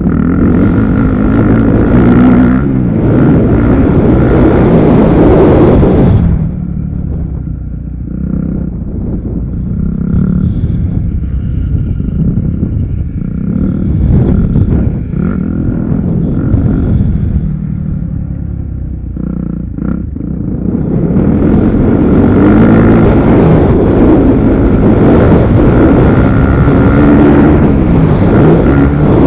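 Motocross dirt bike engines running, loud for about the first six seconds and again from about two-thirds of the way in, quieter and more distant in between.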